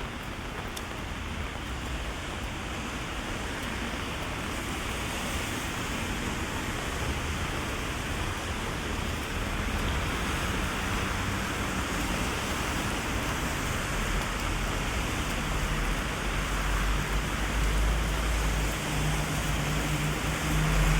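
Heavy rain falling steadily on a city street, with a low hum of traffic that grows louder in the second half.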